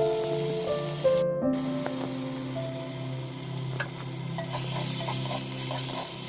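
Food sizzling as it fries in oil in a clay handi, with a steady hiss that cuts out briefly about a second in. Background music of sustained, slowly changing notes plays over it.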